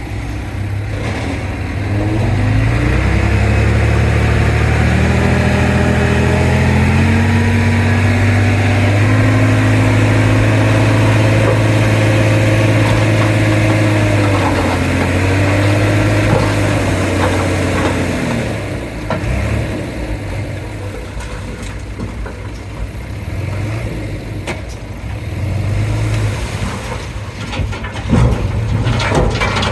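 Komatsu D31P bulldozer's diesel engine climbing in pitch over several seconds, holding high under load, dipping briefly, then falling back to a lower, uneven run. A few knocks near the end.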